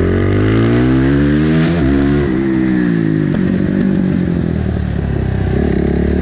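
Supermotard motorcycle engine under acceleration: the revs climb, dip briefly at a gear change about two seconds in, then fall as the throttle closes and settle into rougher, lower revs.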